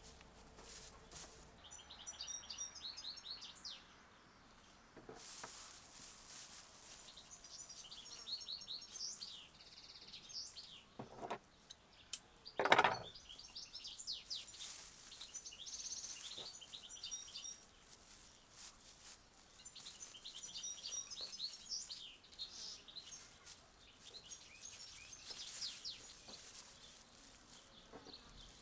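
Songbirds singing in repeated short, high chirping phrases over a faint steady background hiss. About two-thirds of the way through, a single sharp knock stands out as the loudest sound, with a softer one just before it.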